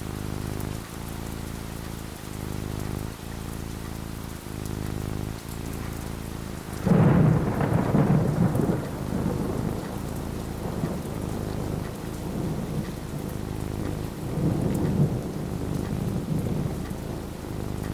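Steady rain falling, with a thunderclap about seven seconds in that rumbles for a couple of seconds, and a weaker roll of thunder near the end.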